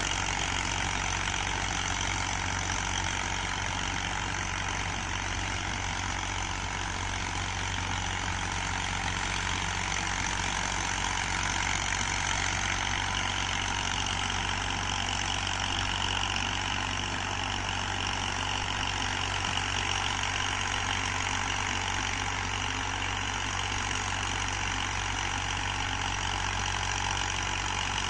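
Massey Ferguson tractor's diesel engine running steadily at a constant speed.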